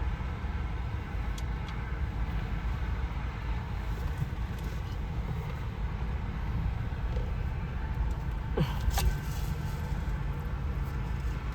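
Steady low vehicle rumble heard from inside a car's cabin, with a short sharp sound with a falling pitch about eight and a half seconds in.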